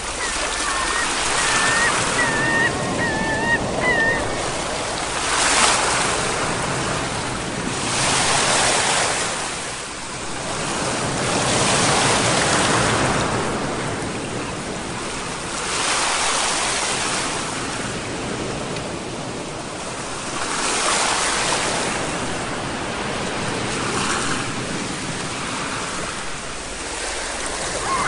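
Sea waves washing onto a shore, the surf swelling and ebbing every three to five seconds.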